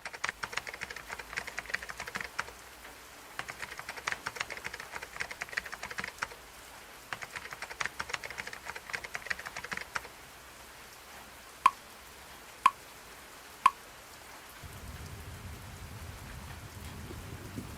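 Computer keyboard typing in three bursts of rapid clicks, then three short electronic beeps about a second apart, like a timer being set. Near the end a steady rain sound with a low rumble fades in.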